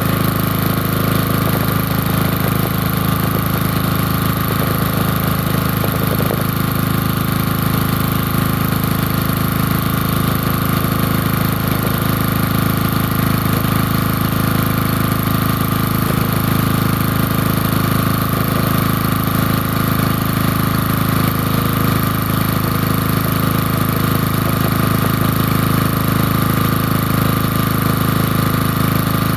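Small portable generator engine running steadily on a cold start, an even unchanging engine note with no stalls or surges.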